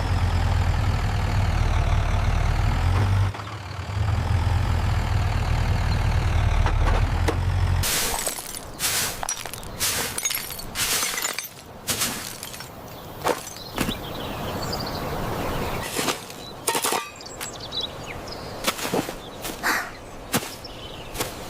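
Cartoon sound effects: a heavy engine rumbles steadily for about eight seconds, dipping briefly near the three-second mark, then cuts off. A run of sharp, separate knocks and clattering crashes follows.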